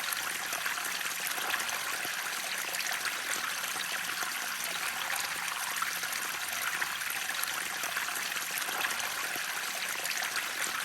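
Flowing water running and splashing in a steady, unbroken hiss, mostly in the upper range.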